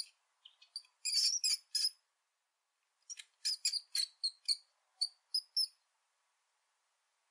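Hamster gnawing and chewing food: quick clusters of crisp, high-pitched crunching clicks in two bursts, the second starting about three seconds in.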